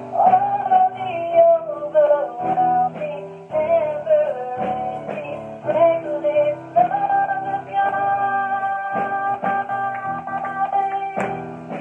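Worship music: a guitar-led band playing, with strummed chords and a melody line carrying on between sung lines.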